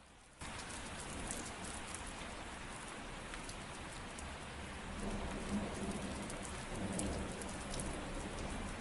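Steady rainfall, a dense patter with scattered individual drops ticking, starting suddenly about half a second in.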